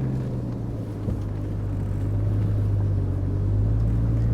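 4x4 vehicle's engine running at a steady low hum while driving slowly up a snowy trail, getting a little louder about halfway through.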